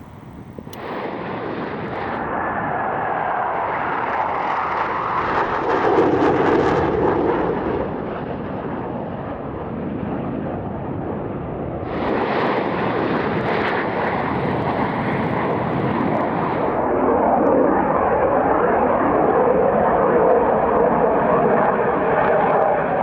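Military jet engines roaring as Blue Angels jets fly past, swelling to its loudest about six seconds in and again late on. The sound changes abruptly at a few points where the recording is cut.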